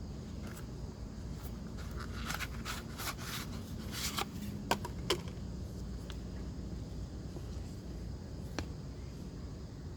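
A run of light clicks and scrapes, handling noise, over a steady low rumble, with a few single clicks later.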